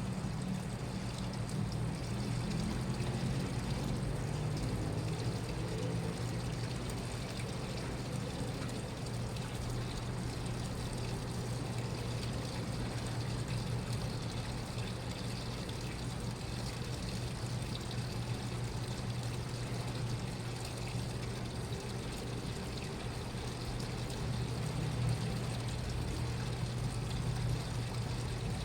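Washing machine running, with water moving in the drum over a steady low hum.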